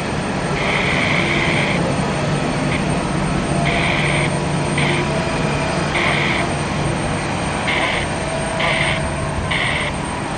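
Jet airliner engine noise, steady and even. Brief higher-pitched bursts come and go irregularly, roughly every second or two.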